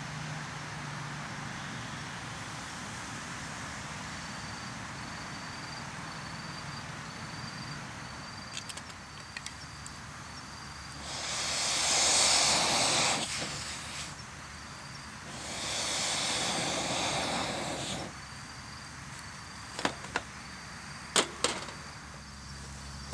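Insects chirping in a steady run of short high pulses over a low steady hum. Two loud hissing whooshes of about two to three seconds each come in the middle, and a few sharp clicks near the end.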